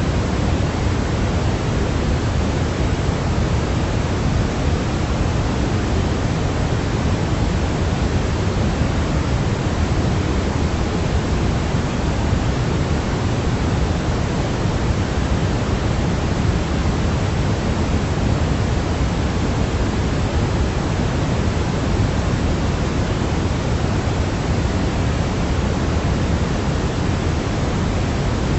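Steady, unchanging sleep noise for a baby: an even rushing hiss, fuller in the low end than in the highs, with no events or changes.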